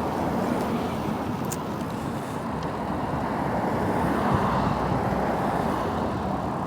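Steady road noise heard from a moving e-bike on a city street: a continuous rush of tyres, wind and passing traffic, swelling a little around the middle.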